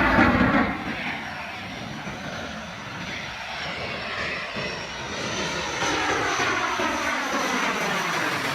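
Low-flying fixed-wing aircraft passing by: its engine noise is loud at first and drops off about a second in. It goes on as a quieter rush with a steady high whine that slowly grows louder again toward the end.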